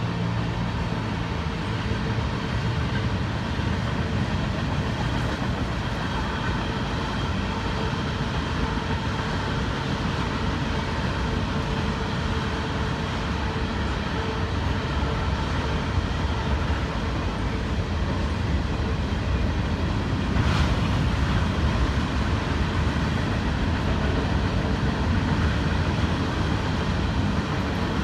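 Freight train's cars rolling past on the rails: a steady rumble of steel wheels on track, with one brief sharper clank about two-thirds of the way through.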